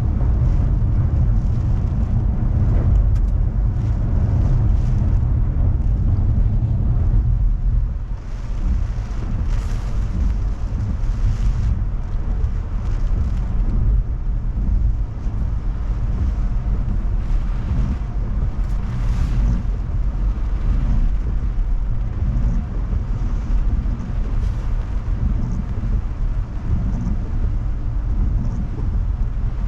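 Steady low rumble of a car driving, heard from inside the cabin, with a few brief surges of hiss from wind and rain on the car during typhoon weather.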